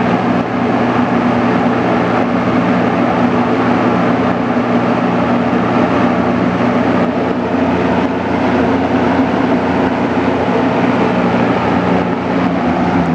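A 1974 Frigid XG-20 box fan running steadily on its low setting: an even rush of air over a motor hum. Even on low this fan's motor runs at fairly high RPM, and it is a little noisy.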